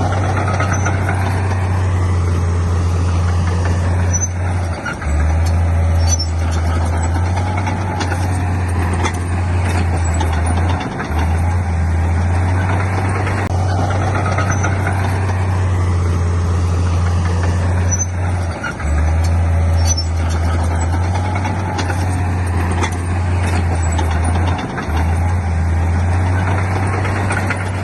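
Heavy diesel construction machinery running steadily, with a strong low engine hum that breaks off briefly about four times.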